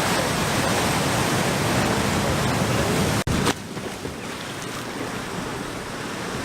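Steady rushing of surf breaking on a beach. About three seconds in it cuts off abruptly and gives way to a quieter, similar rushing background.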